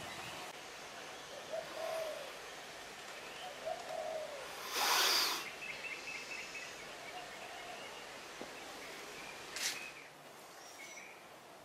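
Birds calling outdoors: short low coos every couple of seconds, with a higher chirping trill in between. A brief rushing noise about five seconds in is the loudest sound.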